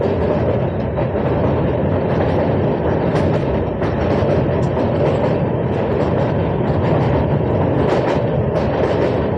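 Indian Railways passenger express train running at speed, a steady rumble of wheels on the rails, with a few faint clicks.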